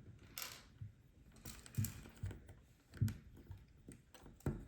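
Plastic LEGO pieces clicking and clattering as they are handled and pressed together on a table, with a few soft, irregular knocks.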